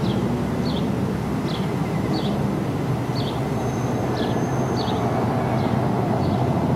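A train rolling past with a steady low rumble. Short high chirps repeat about every three-quarters of a second over it.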